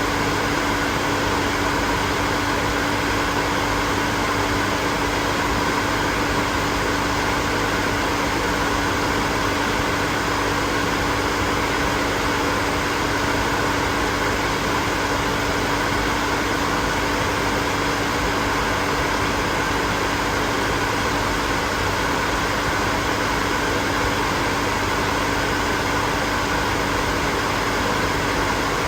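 Hair dryer running steadily: an even rush of blown air with a steady motor hum underneath, unchanging throughout.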